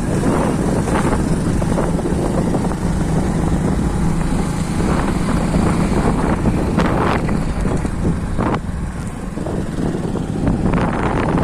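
A moving vehicle's engine running steadily, with wind blowing across the microphone.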